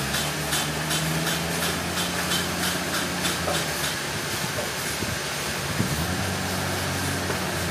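A heavy machine's engine running steadily, its pitch shifting about six seconds in, with a rapid ticking, about four a second, during the first few seconds.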